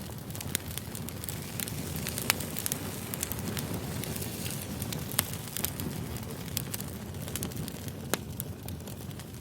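Campfire burning: a steady low rush of flame with scattered sharp crackles and pops of the burning wood.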